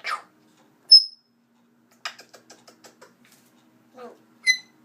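Pet bird making short calls: a brief harsh call at the start, a short high chirp about a second in, and a short pitched chirp near the end, with a quick run of about a dozen small clicks in the middle.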